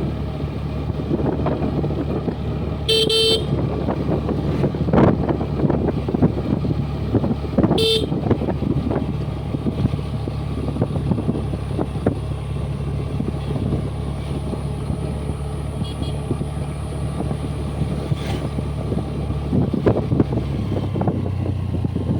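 Honda Dio 125 scooter's single-cylinder engine running steadily on the move, with wind and road noise. A short horn beep sounds about three seconds in and another about eight seconds in, and the engine note shifts near the end.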